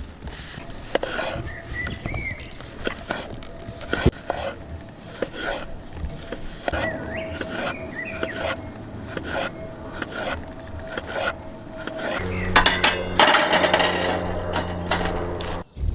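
Metal cookware and utensils clinking, knocking and scraping against a pot or pan over a campfire, with birds chirping. About twelve seconds in, a denser, louder noise with a steady low hum takes over.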